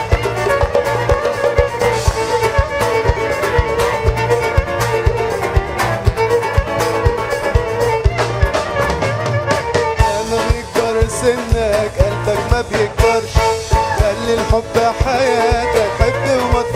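A live band playing, drums keeping a steady beat under sustained melodic lines.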